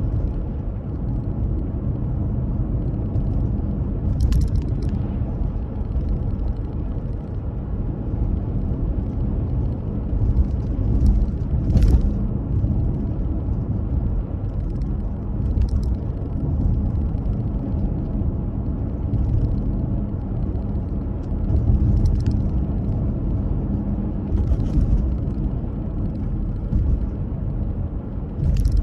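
Car driving on the road: a steady low rumble of engine and tyre noise, with a few brief ticks or rattles scattered through it.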